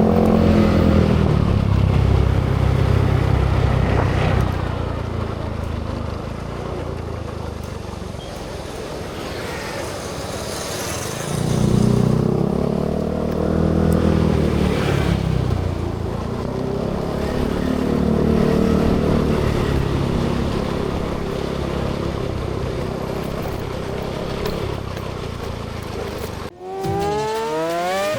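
Motorcycle engine on the move, revving up and easing off several times over a steady rush of wind noise. About two seconds before the end it cuts suddenly to swooping, gliding electronic tones.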